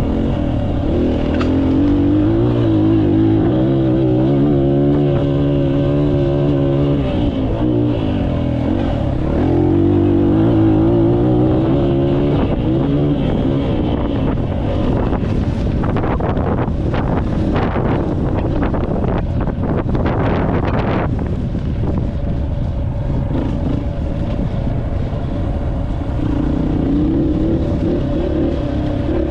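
Dirt bike engine running, its pitch rising and falling as the throttle is worked. In the middle comes a stretch of rough, gusty noise before the engine note returns.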